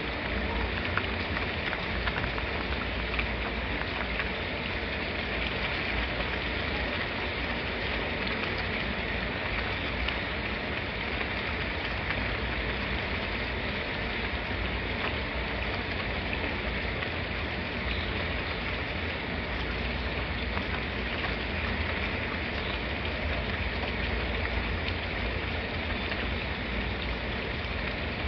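Steady rain falling: an even hiss with scattered drop ticks and a low rumble beneath.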